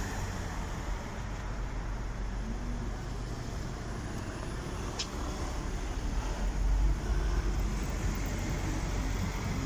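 Road traffic passing on a busy London street: a steady low rumble of vehicles and buses, with a louder vehicle going by about two thirds of the way through. A single sharp click about halfway.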